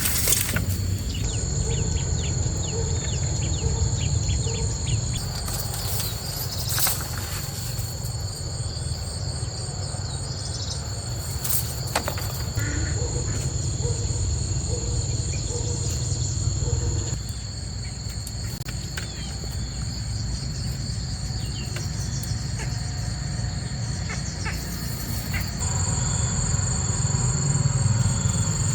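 Insects shrilling steadily in two high, unbroken tones over a continuous low rumbling noise, with scattered light clicks and knocks.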